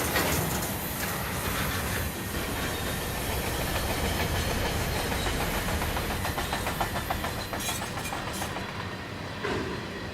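CSX train rolling past: a steady rumble of wheels on rail, with a run of rapid, even clicking from the wheels over rail joints through the middle.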